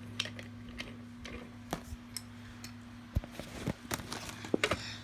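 Toys and packaging being moved about by hand: scattered light clicks and taps, a dull knock about three seconds in and a quick cluster of clicks near the end, over a steady low electrical hum.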